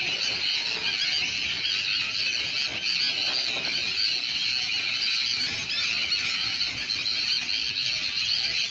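A dense chorus of many birds calling at once, a continuous mass of high-pitched chattering calls with no pauses.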